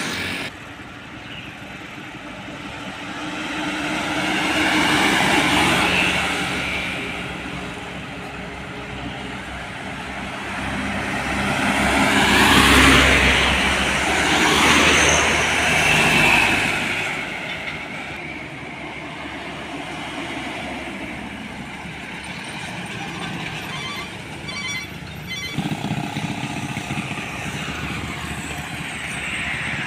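Traffic of heavy road vehicles passing one after another, the engine sound of each swelling and fading, with the loudest pass about halfway through.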